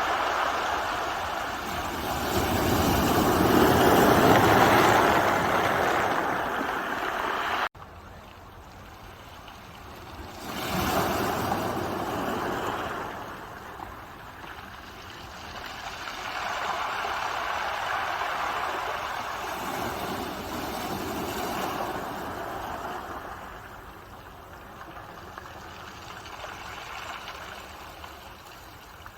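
Ocean waves breaking and washing up a shore, a rushing noise that swells and fades in slow surges every few seconds. The sound cuts off abruptly about eight seconds in, then goes on quieter with further swells.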